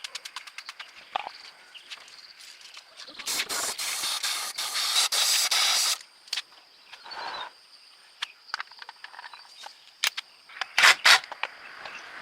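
A loud hiss of spray lasting about three seconds, amid scattered clicks and knocks.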